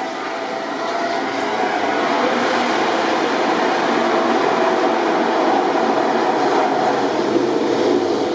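MotoGP racing motorcycle engines running, a loud, steady, dense engine note.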